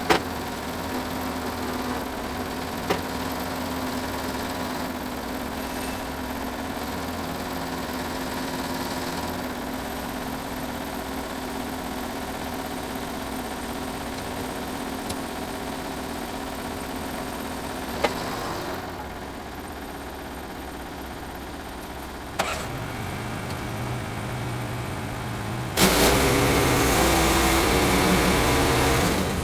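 Sawmill's small gasoline engine running steadily, with a few sharp knocks. Near the end it goes much louder and fuller for about three and a half seconds, then drops back.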